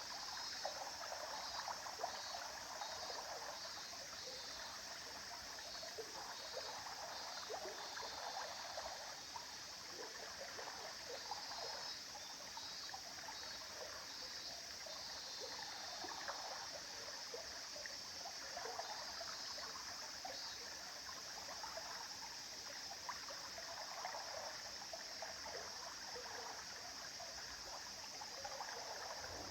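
River water flowing, a steady babbling rush with a fine trickling flicker.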